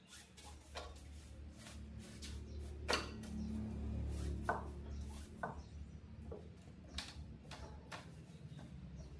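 Scattered sharp clicks and light knocks of hard parts being handled during a TV repair, over a steady low hum that swells in the middle.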